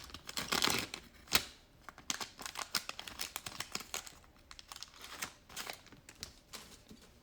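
Trading cards and their pack wrapper being handled at close range: soft crinkling and rustling with scattered light clicks as cards are slid and flipped through a pack, one sharper click about a second and a half in.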